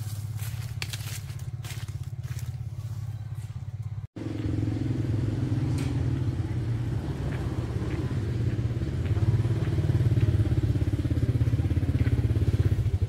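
Small motorcycle engine running steadily with an even, rapid pulse. It drops out briefly about four seconds in, then comes back louder.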